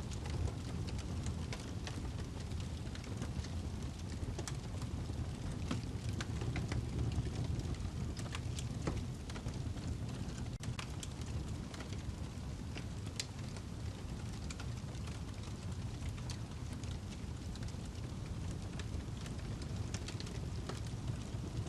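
Wood fire burning in a fireplace: a steady low rumble of the flames with irregular sharp crackles and pops from the burning log.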